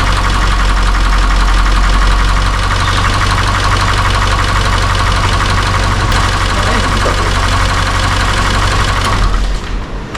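Toyota 86 / Subaru BRZ's 2.0-litre flat-four boxer engine idling steadily with the air conditioning switched on, after the system has been recharged with refrigerant. The noise drops suddenly about nine seconds in.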